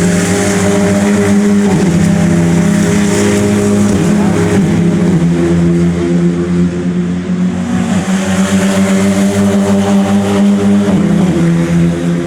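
Turbocharged TC2000 race car engine running hard at a steady high pitch. The pitch dips briefly and recovers about four times.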